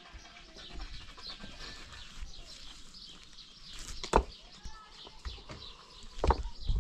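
Small birds chirping, with two sharp knocks, about four and six seconds in.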